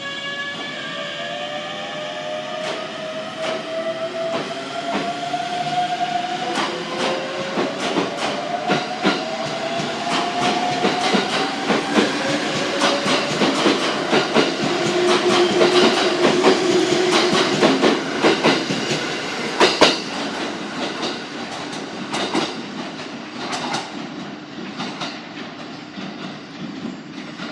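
ET127 series electric multiple unit pulling away: its inverter-driven traction motors whine in a series of rising tones as it accelerates, and the wheels clack over rail joints ever faster. The sound grows louder, then fades away.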